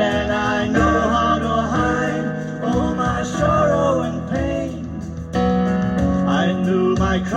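Yamaha Genos arranger keyboard playing a slow pop ballad: a wavering lead melody over sustained chords, bass and a steady beat, with a brief drop in the backing about five seconds in.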